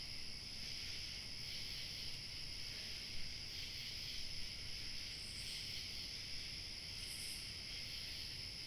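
Steady chorus of chirping crickets, with a constant high trill and a couple of brief, higher-pitched bursts in the second half.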